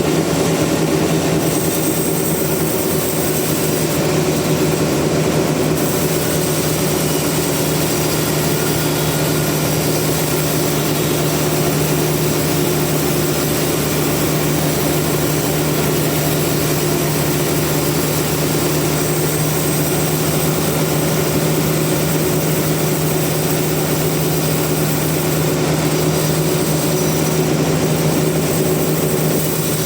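Sawmill machinery running steadily: a constant engine-like hum with a strong low tone, with no change in load.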